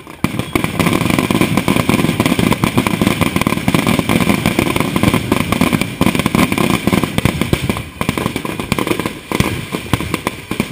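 Fireworks going off in a dense, rapid string of bangs and crackles, thinning a little near the end.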